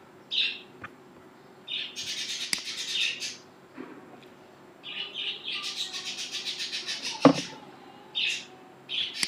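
A bird chirping and chattering in several high-pitched, rapidly pulsed bursts, the longest lasting a couple of seconds. There is one sharp click about seven seconds in.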